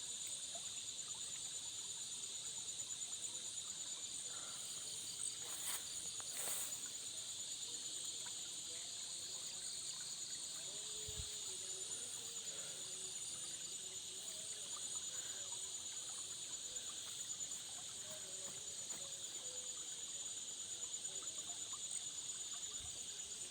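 Steady chorus of night insects: a high-pitched pulsing trill on two pitches, with a couple of faint clicks about six seconds in.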